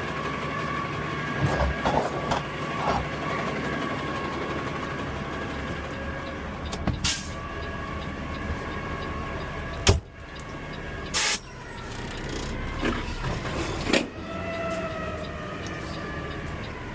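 Automated side-loader garbage truck (Peterbilt 520 CNG with an Amrep arm) working a stop. The engine runs steadily under a hydraulic whine. There is a sharp clank about ten seconds in and short bursts of air hiss near seven and eleven seconds, and the whine rises and falls near the end.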